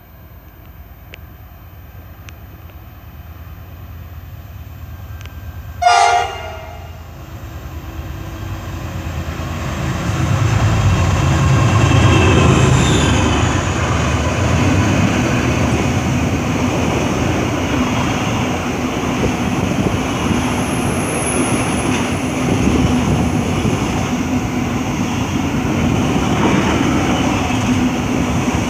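Aurizon 2800-class diesel locomotive hauling a container train approaches and passes. Its rumble grows louder, a single short horn blast sounds about six seconds in, and it is loudest as the locomotive goes by about twelve seconds in. After that the container wagons roll past steadily.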